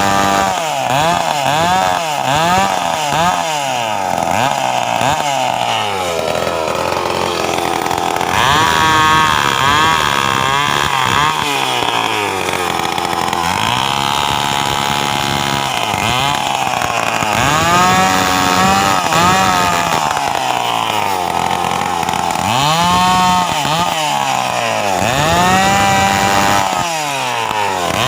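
Stihl two-stroke chainsaw engine revved over and over, its pitch rising and falling with each throttle blip, some blips quick and others held longer at high revs.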